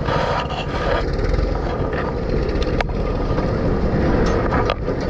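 Steady motor-vehicle noise, with a couple of sharp knocks.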